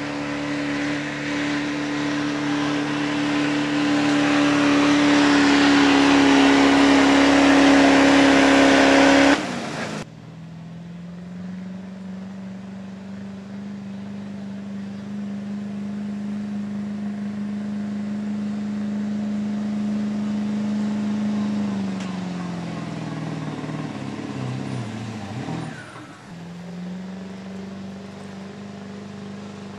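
Pulling tractor's engine running hard at a steady pitch and growing louder, then cutting off abruptly about nine seconds in. A quieter, lower engine note follows; it drops in pitch a little after twenty seconds and picks back up near the end.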